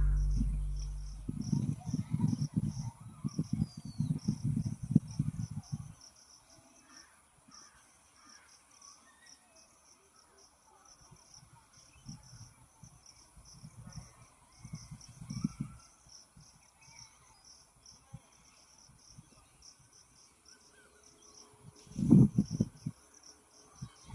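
Outdoor ambience of insects chirping in a rapid, even pulse, with faint bird calls. Low rumbling buffets come in the first few seconds and again near the end.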